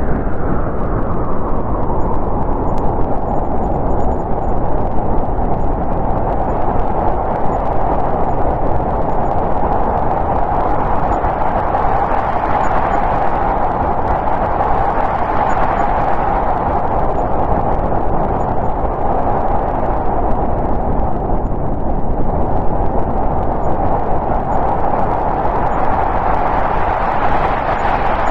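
Snowstorm wind blowing steadily, a dense rushing noise that swells and eases in slow gusts, rising around the middle and again near the end.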